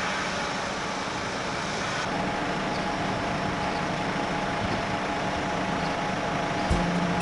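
Truck engine running steadily, driving the hydraulics of the skylift's boom as it is operated from the lower control panel. A few low knocks near the end.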